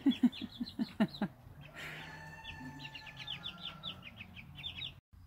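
Chickens clucking: a quick run of about seven loud, low clucks in the first second, then quieter, with a rapid series of high chirps near the end. The sound cuts off abruptly just before the end.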